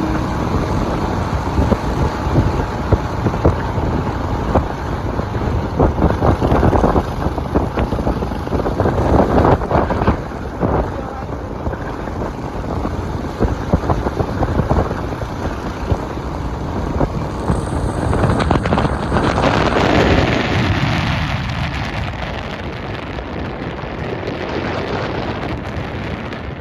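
Wind rushing and buffeting on the microphone of a moving motorcycle, a dense steady noise that rises and falls in gusts and eases a little near the end.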